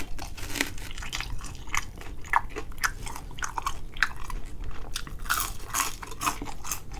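Close-up crunching and chewing of crispy fried chicken wings: a fast, irregular run of crackly bites and wet chewing.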